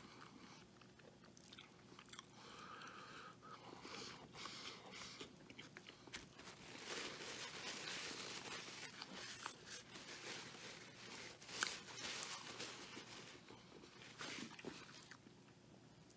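Faint close-up chewing and biting of a bacon cheeseburger, a Wendy's Triple Baconator: wet mouth sounds with small crunches, louder for a few seconds in the middle.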